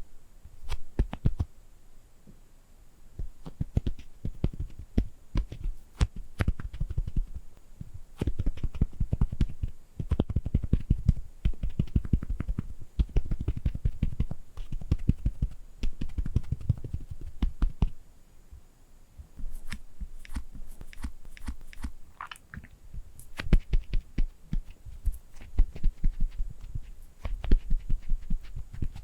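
ASMR tapping on objects held close to the microphone: fast runs of fingertip and nail taps, each with a deep thump, broken by brief pauses.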